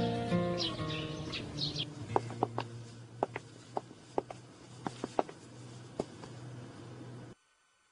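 Birds chirping in short, scattered calls over a steady low hum, with the tail of background music fading out in the first second. The sound cuts off abruptly near the end.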